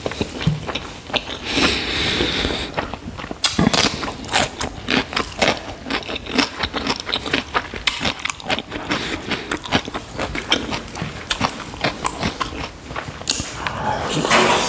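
Close-miked chewing: a dense, irregular run of wet mouth clicks and smacks as rice and pork curry are eaten by hand, with a louder wet burst about a second before the end as another handful goes into the mouth.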